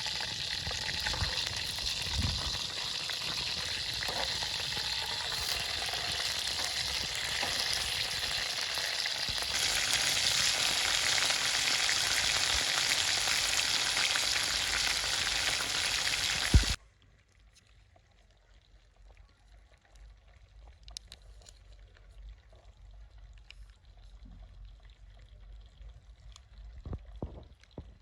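Burger food sizzling and frying hot over a charcoal fire, a steady hiss that grows louder about a third of the way in. It cuts off abruptly with a short thump, leaving near quiet with a few faint taps and clicks near the end.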